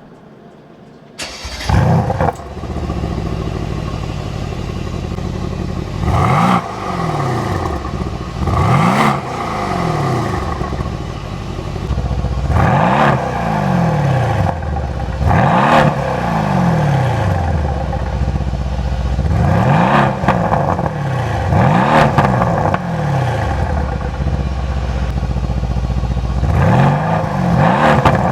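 Mercedes-AMG C63 S V8 on its stock exhaust fires up about a second in, then idles and is blipped about seven times, each rev rising quickly and falling back to idle.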